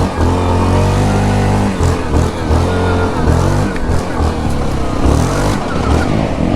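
Yamaha Grizzly 700 ATV's single-cylinder engine running in low range, its pitch rising and falling with the throttle, with another quad's engine revving alongside.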